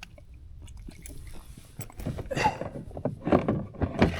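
Handling sounds in a kayak as a redfish is laid on a measuring board: a run of irregular knocks, clicks and scrapes starting about halfway.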